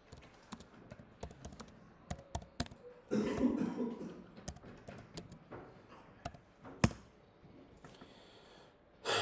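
Typing on a computer keyboard: irregular key clicks, with one sharp, louder key strike near seven seconds. A short, louder muffled noise of about a second comes about three seconds in.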